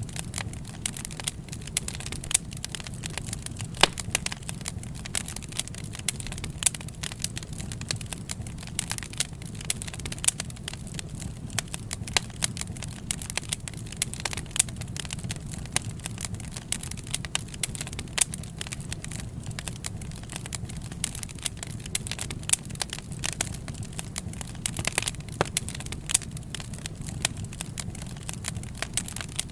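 Wood fire crackling and popping: many sharp, irregular pops over a steady low rumble of the flames.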